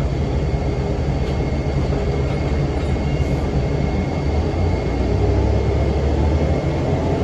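Cummins ISM diesel engine of a 2006 NABI 40-foot low-floor transit bus running, a steady low drone that grows louder about four seconds in. A steady high whine from the engine cooling fan runs with it.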